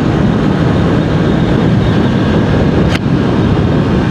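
Honda CBR650R inline-four motorcycle engine running on the move, heard with steady wind rush at the rider's microphone, and a sharp click about three seconds in.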